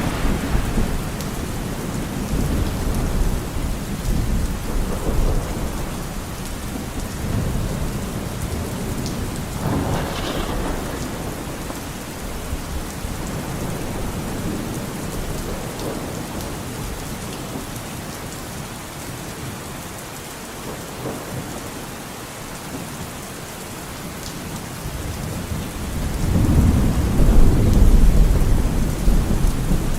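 Steady rain falling, with rolling thunder rumbling at the start and again around a third of the way in, and a louder rumble building near the end.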